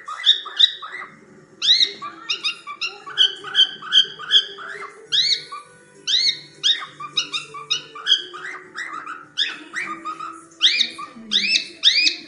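Pet cockatiels calling: a steady run of short, sharp chirps that sweep up and down in pitch, two or three a second.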